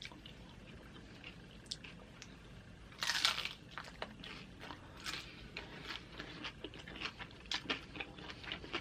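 A bite into crunchy tortilla-chip nachos about three seconds in, followed by close-up chewing with many small, sharp crunches of the chips.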